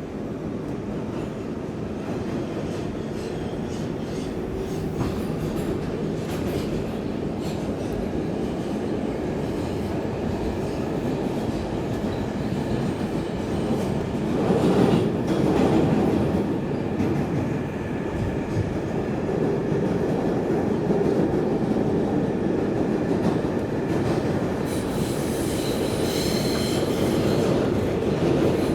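R142A subway car running through the tunnel, heard from inside the car: a steady, loud rumble of wheels on rail with clicking over rail joints. It gets louder about halfway through, and thin, high wheel squeal comes in near the end.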